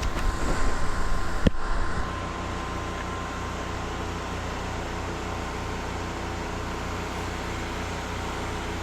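A generator and spray pump running with a steady engine drone. The first two seconds carry louder rough handling noise, with a sharp knock about one and a half seconds in.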